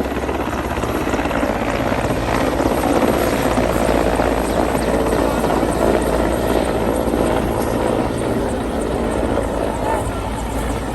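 Helicopter landing close by: a steady low rotor beat under a loud, even rushing noise that grows a little louder through the middle.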